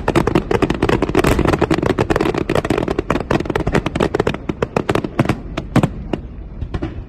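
Fireworks going off in a dense rapid crackling barrage of many overlapping bangs, which thins to a few separate booms in the last couple of seconds.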